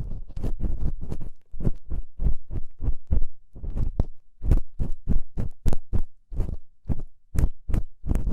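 Ear pick scraping and rubbing inside a microphone's ear for ear-cleaning ASMR, meant as the scraping out of hard, crunchy earwax: a quick run of dry scratchy strokes, about three a second, each with a deep thump, with a short pause a little over a second in.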